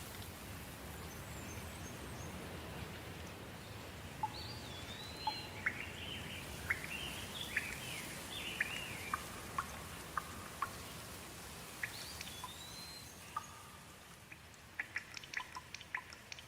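Soft steady rain with birds calling: a couple of rising-and-falling whistles and a run of short chirps through the middle. Near the end the rain thins and single water drops drip.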